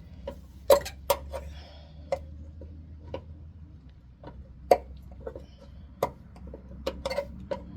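Flathead screwdriver prying at stubborn plastic retaining tabs on a truck's underside: irregular sharp clicks and taps, a few louder snaps among them, over a steady low hum.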